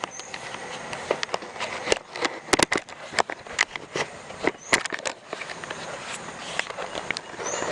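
A jumble of irregular sharp clicks and knocks over a steady hiss, with a few short, high rising chirps.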